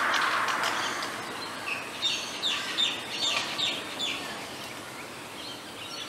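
Noisy miner calling: a quick run of about six short, falling notes a couple of seconds in, over a rush of background noise that fades during the first second.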